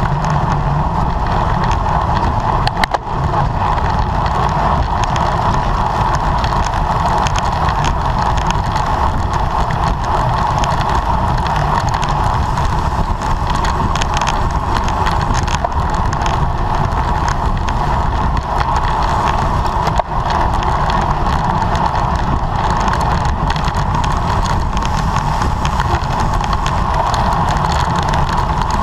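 Steady wind and road noise from a racing bicycle at speed, heard on a camera riding with it, with a constant mid-pitched hum over a low rumble.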